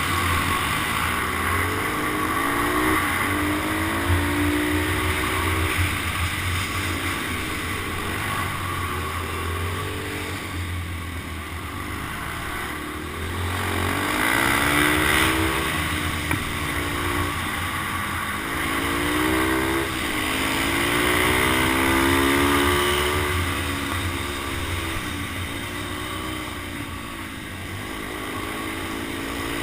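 Motorcycle engine revving up and easing off again and again, its pitch climbing and dropping every few seconds, picked up by a helmet-mounted camera.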